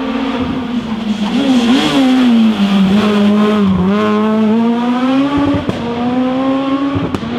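Rally car engine revving hard on a special stage, its pitch dipping and climbing several times as the driver lifts, brakes and shifts, loudest a couple of seconds in. A few sharp cracks come in the second half.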